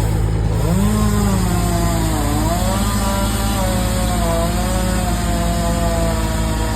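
Chainsaw running, its pitch sagging and rising as it works through wood, over a steady low engine drone.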